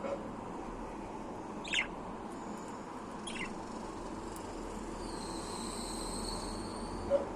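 Budgerigar chirping: two short chirps about two and three seconds in, then a thin, steady whistle held for about two seconds near the end.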